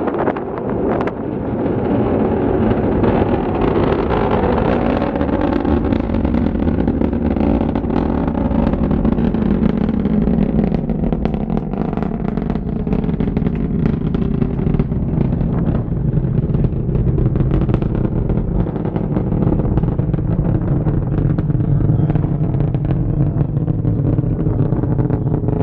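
Rocket launch rumble heard from a distance: a loud, continuous deep roar with crackling, its tone slowly shifting over the whole stretch.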